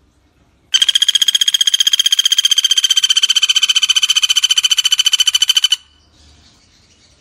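Common flameback woodpecker (pelatuk bawang) giving one long, fast rattling trill of evenly repeated high notes. It starts about a second in, runs for about five seconds and stops abruptly.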